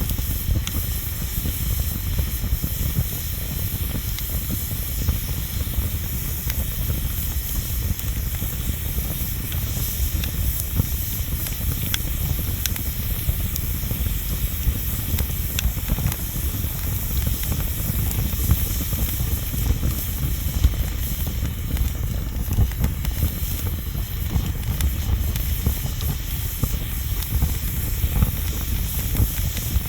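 Bonfire burning: a steady hiss and low rumble, with scattered sharp crackles and pops.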